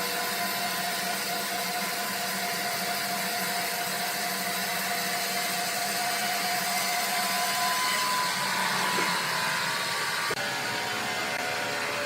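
Sawmill machinery running steadily: a continuous whirring hum with a few steady whining tones over it, dropping briefly about ten seconds in.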